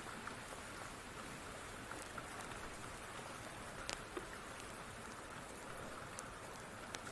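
Steady rain with a few sharp pops from a crackling wood fire, the clearest about four seconds in and near the end.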